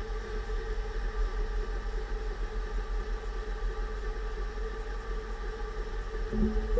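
2006 Range Rover Sport on the move, with low road rumble under a steady whine from the freshly rebuilt differential. The differential still sounds loud, and the owner suspects its pinion preload is set too tight.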